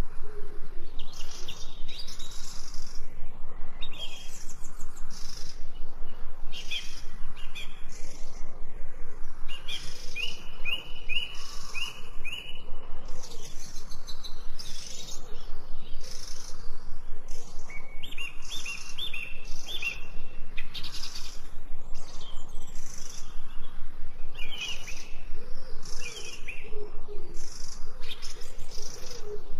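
Several birds singing and chirping together, a dense run of short high chirps with no gaps. Twice, a bird gives a quick series of four or five repeated notes, once about ten seconds in and again near eighteen seconds. A low, wavering call sounds under the chorus near the start and again about twenty-six seconds in.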